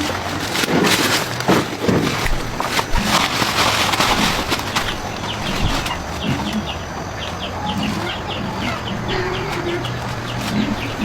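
Bird calls over scattered knocks and clatter, with a quick run of short, high chirps in the middle.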